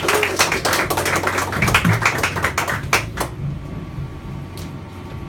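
A small audience clapping, dying away about three seconds in, with a low steady hum underneath.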